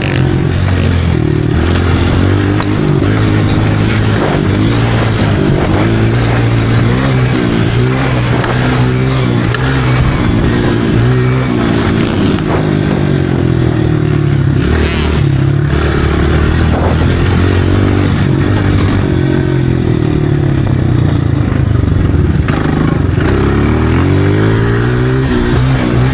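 Dirt bike engine running hard, its pitch rising and falling over and over as the throttle opens and closes.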